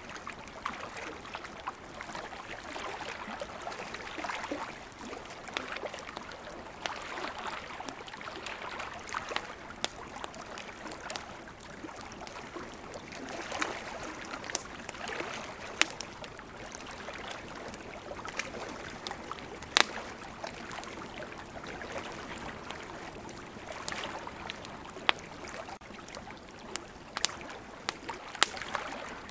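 Wood campfire crackling, with frequent sharp pops, over the wash of ocean waves that swell and fade every several seconds.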